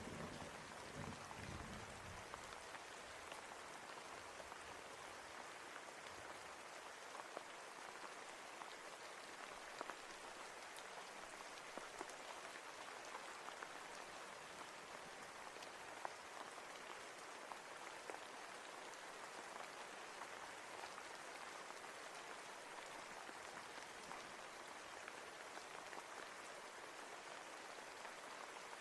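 Steady rain falling, with scattered raindrops ticking. A low rumble of thunder dies away within the first couple of seconds.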